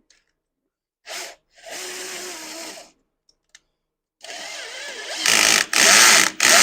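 Cordless drill/driver with a 3/8 socket driving the snowblower starter's lower mounting bolt into the aluminium engine case. It runs in several separate spurts, and the last three near the end are louder as the bolt is run down tight.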